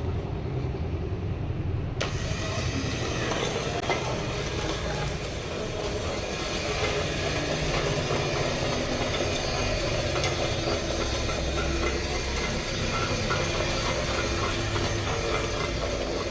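A motor or engine running steadily with a low rumble.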